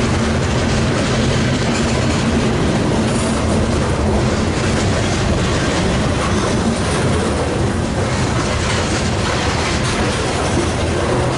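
Freight train rolling past, its wheels clattering over the rail joints, loud and steady throughout.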